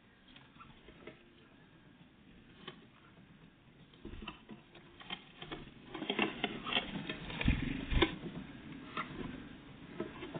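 Great tits and blue tits pecking and landing at a bird feeder: scattered light clicks and taps that get busier about four seconds in, with two dull thumps in the second half.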